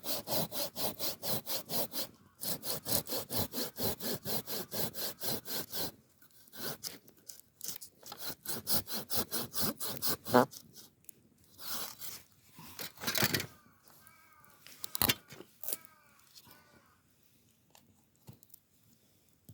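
Hand saw cutting through wood in quick, even strokes, about four a second, pausing briefly about two seconds in and stopping about six seconds in. Scattered scrapes and knocks follow, and a few short chirps come near the end.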